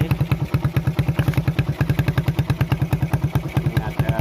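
Suzuki Satria FU's single-cylinder four-stroke engine idling steadily through a gutted stock muffler, an even run of exhaust pulses at about a dozen a second.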